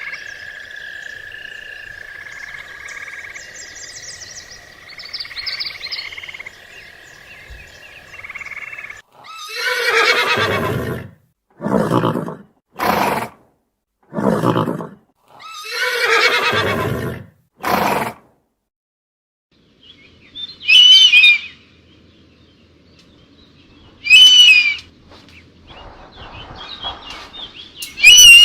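Animal calls: a steady high-pitched chorus for the first nine seconds, then six loud, harsh calls over about nine seconds, then three short, quavering high-pitched calls a few seconds apart.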